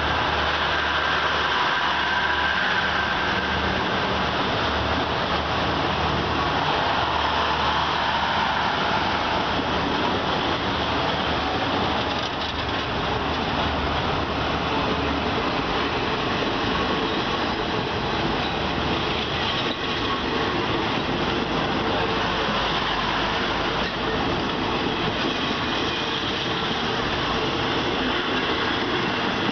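Passenger coaches of an express train rolling past close by at speed: a steady, unbroken rumble and rush of steel wheels on rail, with a faint high wheel whine in the first few seconds.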